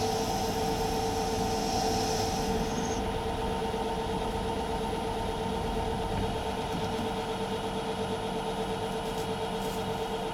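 Myford lathe running with a steady whine while roughing out a metal workpiece. A high hiss from the cut stops about three seconds in, and the machine keeps running.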